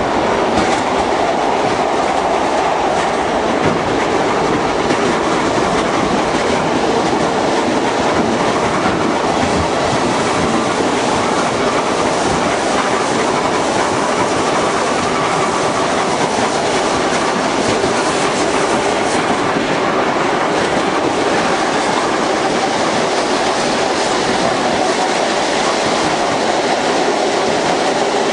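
ER2T electric multiple unit running along the track, heard from inside the carriage: a steady, even rumble of the moving train with the clickety-clack of wheels over rail joints.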